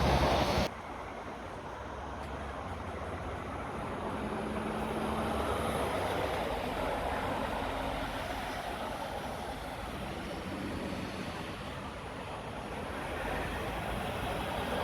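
Road traffic: a louder vehicle engine cuts off abruptly under a second in, then a steady rumble of passing road traffic that swells and eases off.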